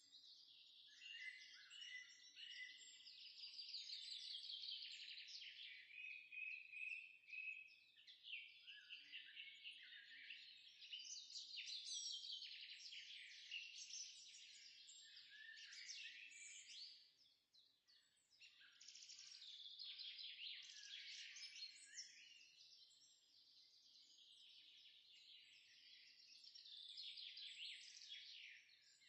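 Songbirds singing faintly: quick chirps and trills in phrases that come and go, with short pauses between them.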